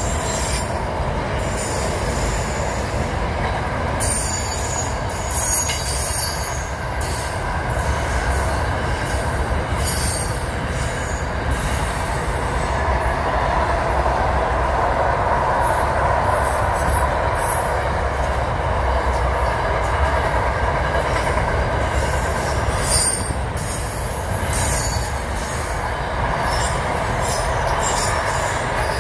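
Intermodal freight train's container wagons rolling past in a steady rumble, with high-pitched metallic wheel squeal coming and going several times, loudest near the start and again about three-quarters of the way through.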